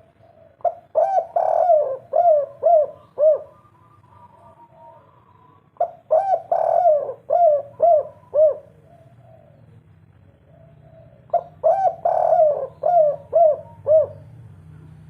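Spotted dove (tekukur) cooing in the 'kuk 3' style: three phrases about five seconds apart. Each phrase is a run of low coos ending in a few quick, clipped notes.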